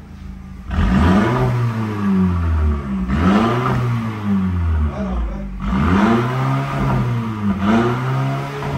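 An engine revving up and down over and over, its pitch rising and falling in sweeps about every two to two and a half seconds, starting about three-quarters of a second in.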